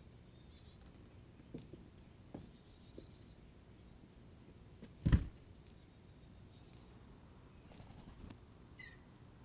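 Faint calls of wild birds: a short high whistled note about four seconds in and a falling whistle near the end, with a few soft knocks and one loud low thump about five seconds in.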